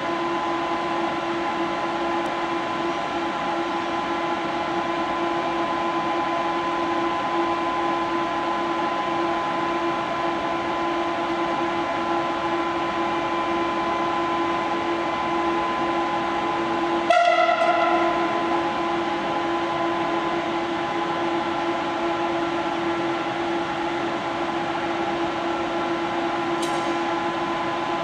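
Locomotive hum from a slow freight train hauled by a Pesa Gama electric and an M62 'Gagarin' diesel: a steady drone with several held tones. About two-thirds through, one short, loud horn blast fades over about a second.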